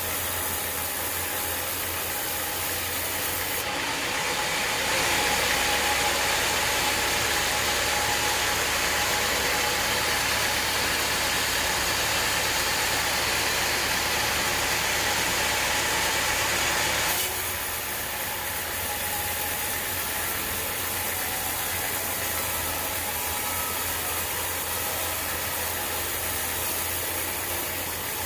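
Sawmill engine running steadily, with a louder, hissier stretch from about five seconds in to about seventeen seconds in, as the saw blade cuts through an acacia log, then back to the engine running alone.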